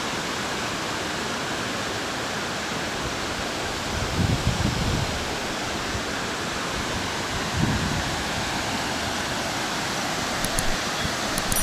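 Steady rush of water pouring over a small waterfall swollen by heavy rain, with brief low rumbles about four and eight seconds in.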